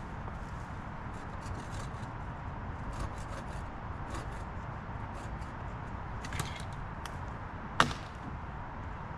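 Scattered light snaps and cracks of wood and brush, with one sharp crack about eight seconds in, over a steady low rumble.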